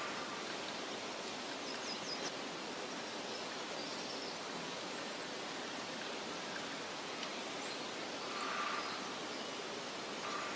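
Steady outdoor nature ambience: an even, soft hiss with a few faint, high bird chirps about two seconds in and again near the end.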